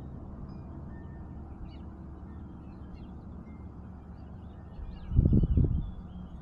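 Faint, short bird chirps over a steady low outdoor rumble, broken by a loud low rumble in two pulses about five seconds in.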